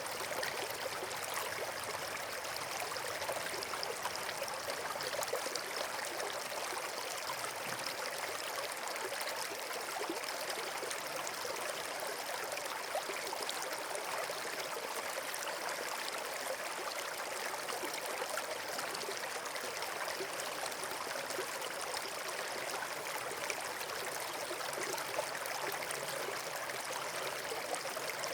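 Steady rushing of running water, a stream or small waterfall, unchanging throughout.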